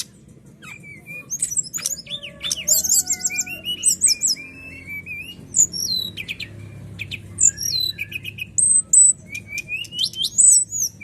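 Sikatan rimba dada coklat (brown-chested jungle flycatcher) singing a fast, varied song of clear chirps, slurred whistles and short trills, with a faint low hum behind it.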